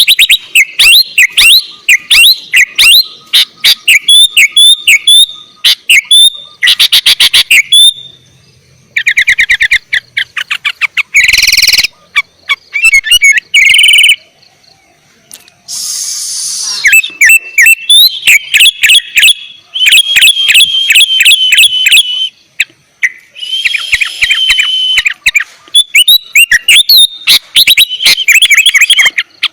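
Sooty-headed bulbul (kutilang) singing energetically in rapid, varied phrases of quick chirps and trills, with a short harsh rasping note about 11 seconds in and another about 16 seconds in.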